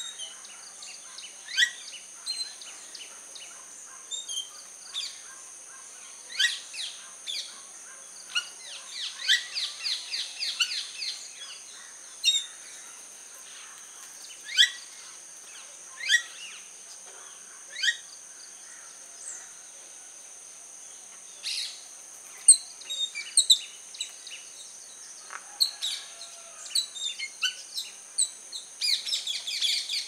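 Wild birds calling: short, sharp falling chirps every second or two, with a quick run of rapid repeated notes near the end, over a steady high-pitched hum.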